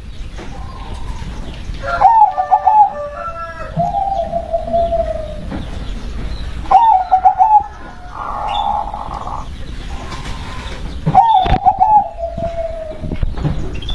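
Zebra dove (local perkutut) cooing: three phrases of quick warbled coos, about two, seven and eleven seconds in, two of them trailing off in a long falling note.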